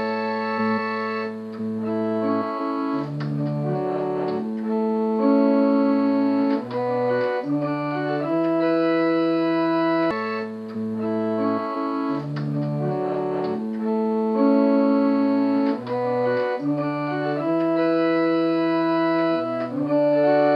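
Instrumental keyboard music, organ-like, playing slow held chords that change every second or two, the same chord sequence coming round again about every ten seconds.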